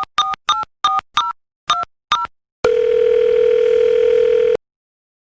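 Telephone keypad dialing: about seven short touch-tone beeps, each made of two tones. Then a steady telephone tone sounds for about two seconds and cuts off suddenly.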